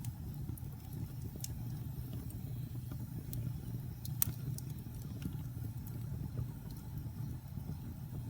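Wood fire crackling in a fireplace: scattered sharp pops and snaps over a steady low rumble of the flames, the loudest pop about four seconds in.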